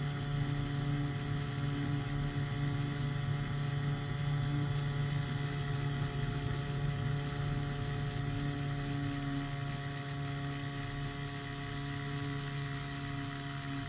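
The small piston engine and propeller of a powered hang glider running at a steady, even drone with no change in pitch.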